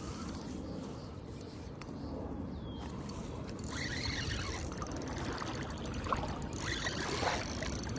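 River water running and trickling, with low wind rumble on the microphone and a few faint light splashes or ticks.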